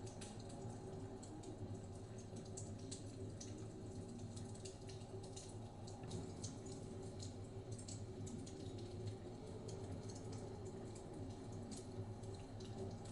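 Wood fire crackling in a fireplace, with irregular small pops and snaps over a steady low rumble of blizzard wind.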